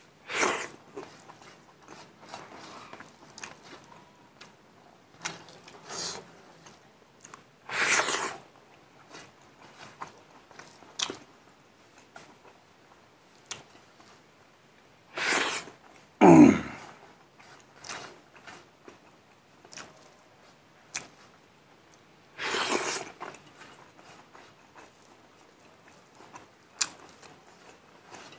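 Close-up eating sounds of a man eating rice and mustard greens by hand: wet chewing and small mouth clicks. Five loud short breathy bursts break in, and about sixteen seconds in there is a short low hum that falls in pitch.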